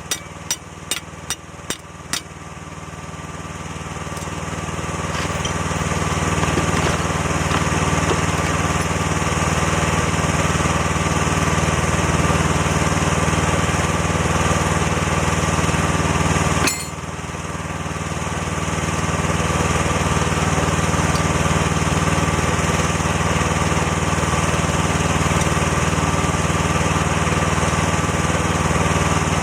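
A few sharp knocks, about two a second, in the first two seconds. Then a small engine runs, its sound building over several seconds to a steady level. About two-thirds of the way through it dips suddenly with a click, then builds up again.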